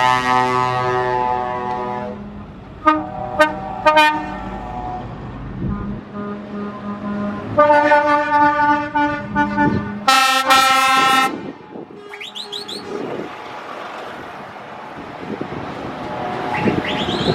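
Convoy trucks sounding their horns as they pass: a long horn blast fading out, a few short toots about three to four seconds in, then two longer blasts around eight and ten seconds in. Brief rising tones come later, over the noise of the trucks going by.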